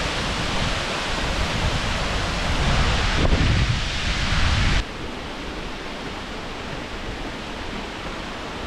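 Steady rushing noise of Victoria Falls' falling water and spray. A little past halfway it cuts suddenly to a quieter, steadier rush.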